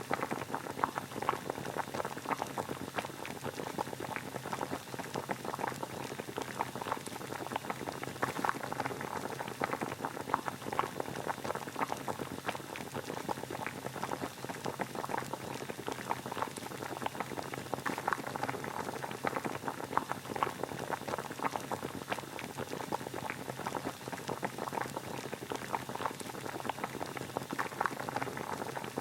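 Water boiling: a steady, dense bubbling made of many small pops.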